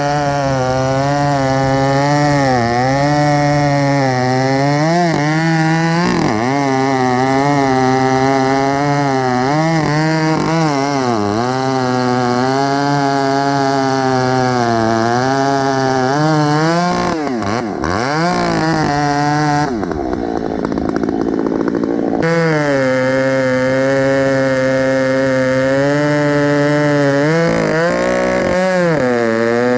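Gas chainsaw running under load as it cuts through wood. Its engine note sags and recovers again and again, with a long, deep dip about two-thirds of the way through.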